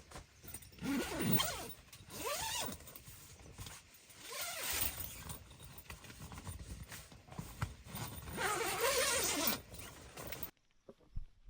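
An animal calling several times, each call a sweeping pitched cry, the last one longer; the sound cuts off abruptly near the end.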